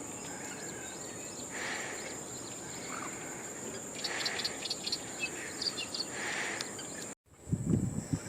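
Crickets droning steadily, with a few short bird chirps midway through. After an abrupt cut near the end come louder, rough fluttering sounds, typical of a bird splashing as it bathes.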